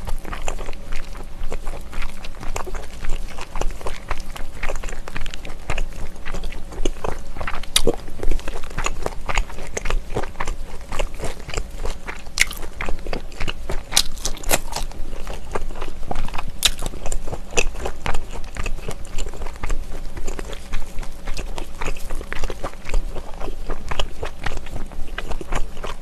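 Close-miked chewing of smoked pork belly: wet mouth sounds and a steady run of small, sharp clicks as the meat is chewed.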